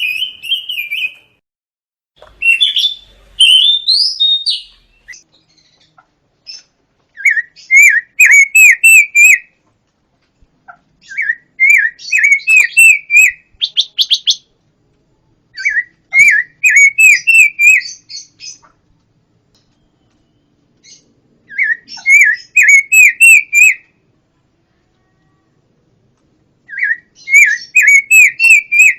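Pancawarna bird singing: loud phrases of quick, hooked whistled notes, each phrase lasting about two seconds and repeated five times, with short gaps between. There are a few looser chirps near the start.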